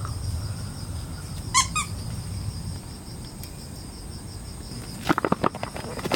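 Crickets chirping steadily in a high, pulsing drone, over a low background rumble. A brief high call breaks in about one and a half seconds in, and a few clicks and knocks come near the end.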